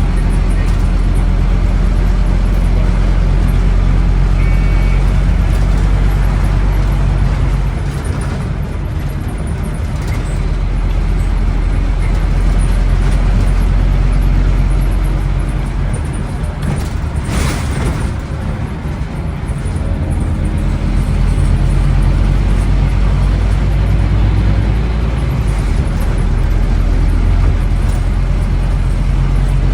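Scania N270UD OmniCity double-decker bus's five-cylinder diesel engine running as the bus drives, heard from on board, with its tone rising and falling as it pulls away and eases off. It goes quieter twice, and a short sharp hiss of air sounds a little past halfway.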